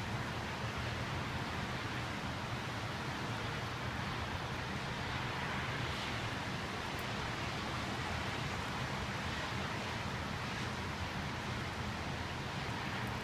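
Steady rain and wind of a thunderstorm, an even, unbroken hiss.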